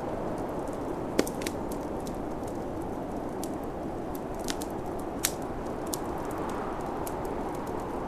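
Wood fire crackling, with sharp pops scattered at random, the loudest about a second in, over the steady rushing wind of a snowstorm.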